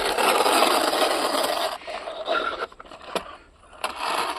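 Plastic toy train being pushed along the ground, its wheels and body scraping steadily for a couple of seconds, then in short broken scrapes with a couple of sharp clicks.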